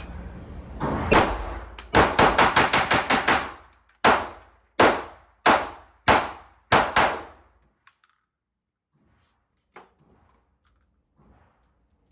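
Glock pistol shots: a single shot, then a fast string of about eight, then five more spaced under a second apart, before the firing stops.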